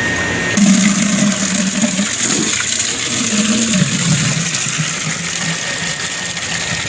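Water being poured into a cats' drinking container, a steady splashing rush that starts about half a second in, over a low hum.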